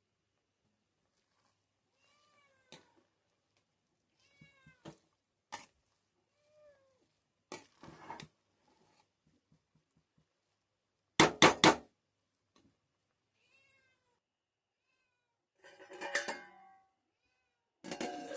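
Short animal calls, repeated every second or two, each arching up and down in pitch, with scattered clicks and knocks in between. The loudest sound is a quick run of three sharp knocks about eleven seconds in, and there are two bursts of clattering near the end.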